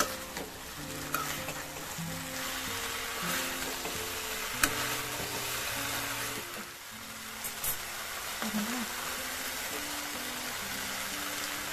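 Chicken pieces sizzling in a thick sauce in a steel wok while a metal spatula stirs and scrapes them, with a few sharp clicks of the spatula against the pan, the loudest about four and a half seconds in. Soft background music plays underneath.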